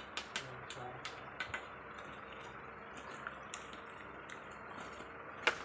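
Scattered light clicks and clinks of metal tools and engine parts being handled during an engine rebuild, with one sharper knock near the end.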